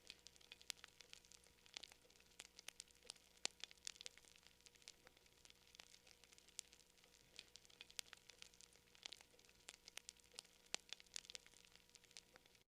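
Campfire crackling: irregular sharp pops and snaps of burning wood, several a second, over a faint hiss.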